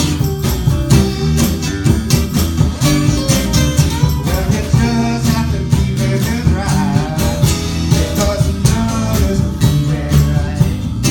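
A live band playing a country-blues style song: guitar over bass and a steady drum beat, with a voice singing through the middle.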